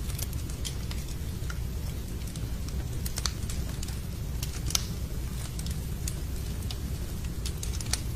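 Wood fire in a fireplace crackling, with irregular sharp pops and ticks scattered through it over a steady low rumble.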